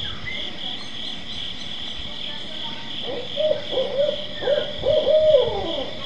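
A bird giving short hoots in a quick run, starting about three seconds in, a few of them sliding down at the end. Behind it, a steady high pulsing drone of insects.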